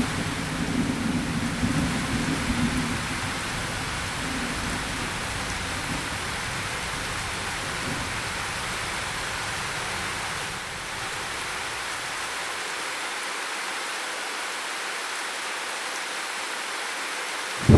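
Steady heavy rain hissing, with a low rumble of thunder dying away over the first few seconds. A new thunderclap breaks in right at the end.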